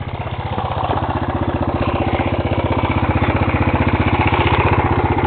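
Dirt bike engine running at a steady low speed, a rapid even putter that grows steadily louder.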